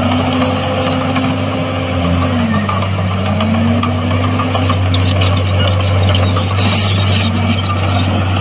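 Heavy construction machine's diesel engine running, its pitch dropping briefly about two and a half seconds in as the revs dip and then rising back, with a light rattle of metal over it.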